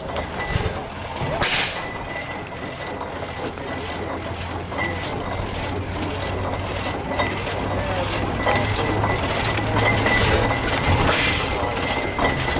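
IHC 20 horsepower friction-drive antique tractor's engine running with a regular, even beat, growing louder toward the end. A faint steady high tone sounds alongside it.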